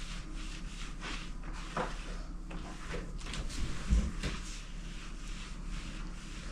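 Light knocks and clicks of things being handled and set down on a kitchen stove top, with one heavier thump about four seconds in.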